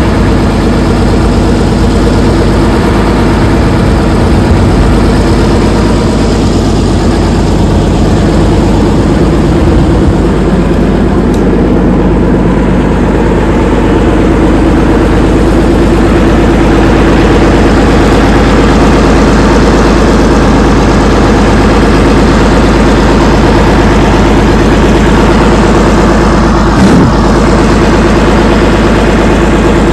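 Allis-Chalmers HD-21 crawler dozer's diesel engine running steadily just after starting, with one short thump near the end.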